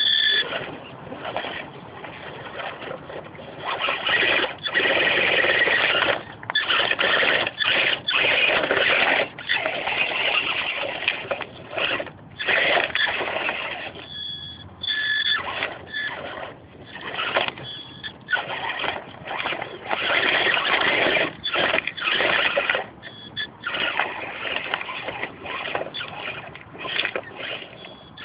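Axial Honcho RC crawler driving in stop-and-go throttle bursts: its 450-class 1380kv brushless outrunner motor and drivetrain whine, with short pauses between bursts.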